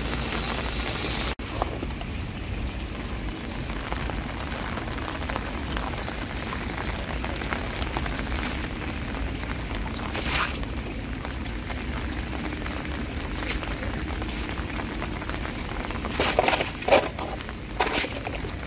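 Steady rain falling on wet pavement around a street storm-drain grate, heard as an even hiss. Near the end come a few louder scuffs and rustles as a foot pushes litter across the grate.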